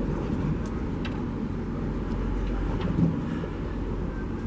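A boat's engine running steadily under a heavy low rumble of wind buffeting the microphone, with a few faint ticks.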